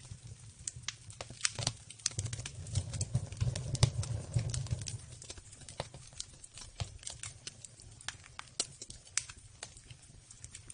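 Campfire crackling, with irregular sharp pops and snaps over a low rumble that is loudest about two to five seconds in.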